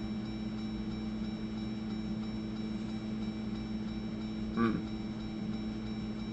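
A steady, even hum in the Jeep with its ignition on, holding one unchanging pitch, with a brief murmur about four and a half seconds in.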